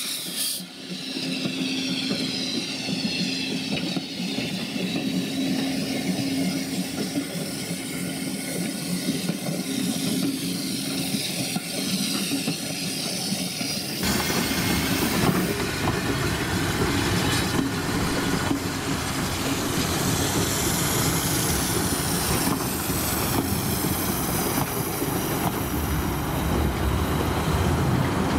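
Steam-hauled passenger coaches rolling past on the track, wheels running over the rails. About halfway through, the sound jumps to a louder, deeper rumble as the train passes close by.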